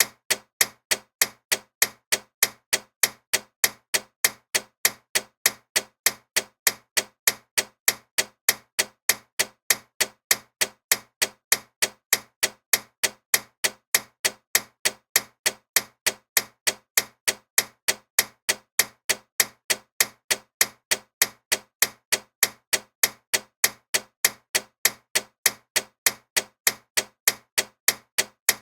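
Loud ticking clock: sharp, evenly spaced ticks at a steady rhythm.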